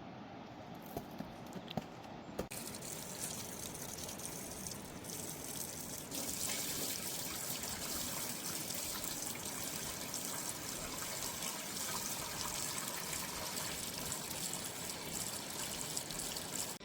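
Steady rain falling: a dense, even hiss of water that steps up in loudness about two seconds in and again about six seconds in.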